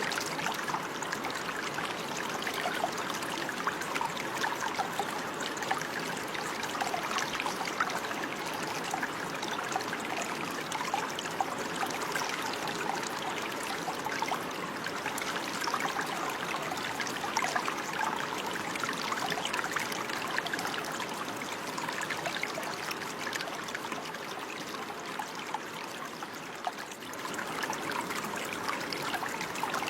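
Running water: a stream babbling and trickling steadily, with small splashes throughout.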